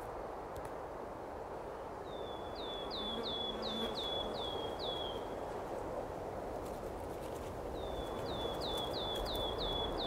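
A small songbird singing two phrases. Each phrase is a quick series of about seven or eight high notes, and each note drops sharply in pitch. The bird sings over a steady background hiss of outdoor ambience.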